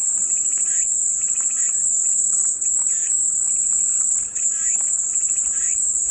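Cicadas singing in a steady, unbroken high-pitched drone, with fainter short calls repeating beneath it.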